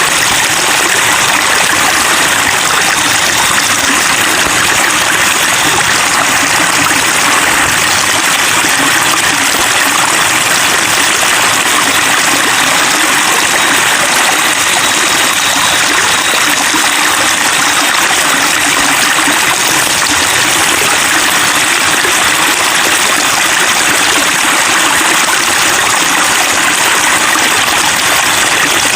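Running water babbling and trickling in a steady, unbroken flow.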